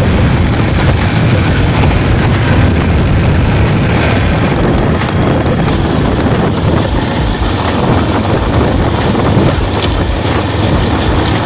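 Motorcycle on the move, a steady loud rumble buried under heavy wind buffeting on the microphone.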